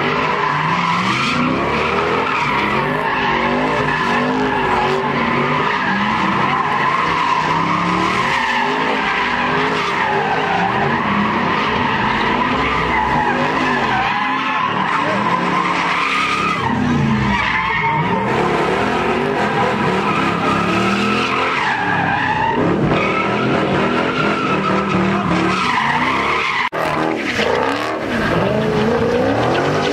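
Cars spinning donuts, engines revving up and down over a continuous squeal of tyres sliding on pavement.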